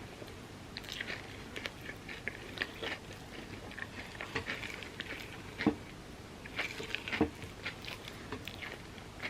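Close-miked eating: a person chewing and biting crunchy chocolate-topped overnight oats with pistachio kataifi, many small crackly clicks and crunches, with two sharper knocks a second and a half apart about halfway through.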